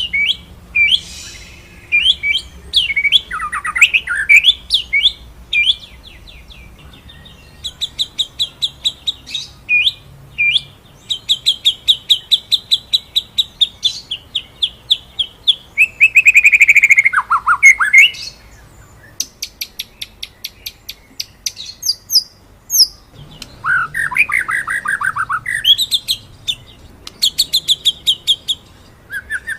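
White-rumped shama (murai batu) singing: long, fast trills of sharp repeated high notes, broken by short scattered phrases. Twice, about halfway and again about three-quarters through, it gives a louder, lower swooping whistled phrase.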